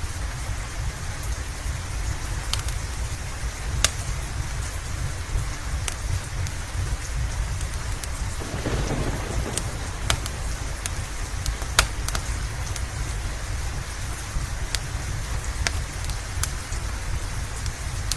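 Steady rain over a constant low rumble, with a wood fire's sharp crackles and pops every second or so. A short swell of noise comes about nine seconds in.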